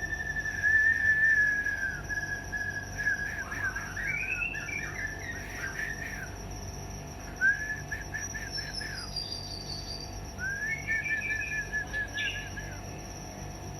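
White-rumped shama (murai batu) singing: several phrases of quick, arching whistled notes with short pauses between them. There is a single sharp click about seven seconds in.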